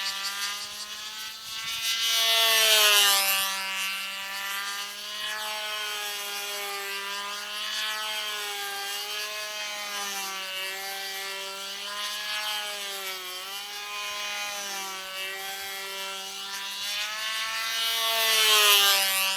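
Small model-airplane engine running at high revs on a control-line model plane in flight. The buzzing pitch wavers up and down as the plane circles, and the sound swells louder about two seconds in and again near the end.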